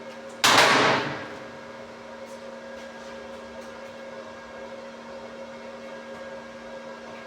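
A short loud hissing burst about half a second in, fading within about half a second, over a steady electrical hum of workshop machinery.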